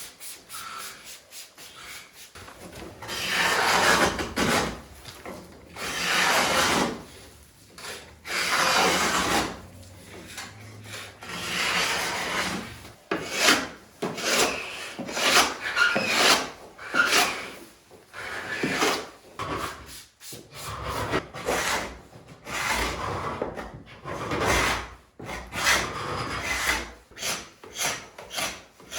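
Hand scraper scraping old antifoul and red lead paint off the wooden hull planking, in repeated rasping strokes: a few long, slow strokes at first, then quicker, shorter ones.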